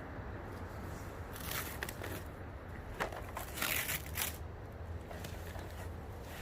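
Plastic packaging being handled, crinkling and crackling in two bursts, the stronger a little past the middle, over a steady low hum.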